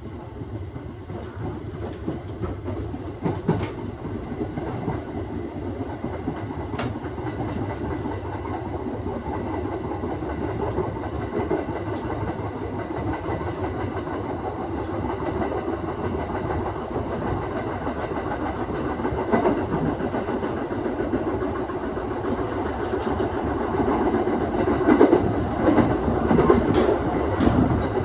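Aoimori Railway 701 series electric train running along the line: a steady rumble of wheels on rail, with a few sharp clicks as the wheels pass over rail joints, getting a little louder toward the end.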